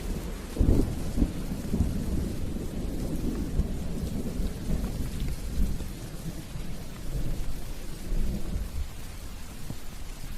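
Rain falling steadily with a rumble of thunder that breaks in sharply about half a second in, then rolls on and fades over the following seconds.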